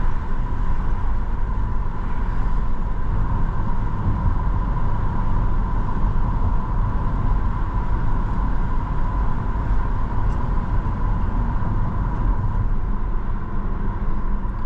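Steady road and tyre noise with the engine's low rumble inside a moving car's cabin, with a constant faint hum over it.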